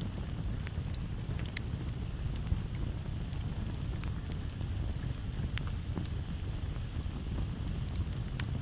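Campfire crackling, with irregular sharp pops scattered through a low steady rumble, one pop standing out about two and a half seconds in. A steady high cricket trill runs underneath.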